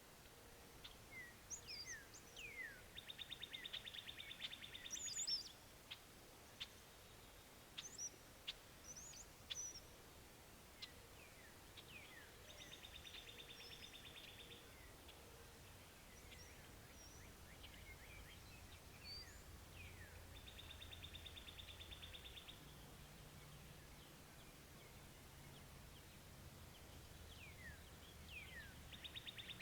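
A small songbird singing the same song four times: a few quick down-slurred notes, then a rapid, even trill of about two seconds. Scattered chirps from other birds in between, and a faint low hum in the last few seconds.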